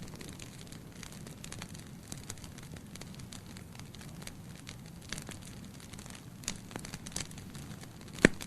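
Wood fire burning in a fireplace: a steady low rumble of flame with scattered crackles from the logs, and one sharp, much louder pop near the end.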